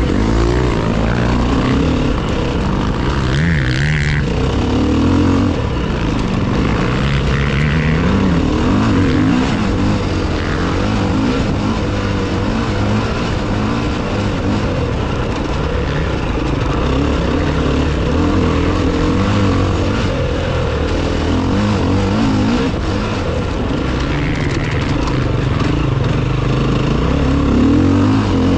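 Enduro motorcycle engine running under load, its revs rising and falling continually.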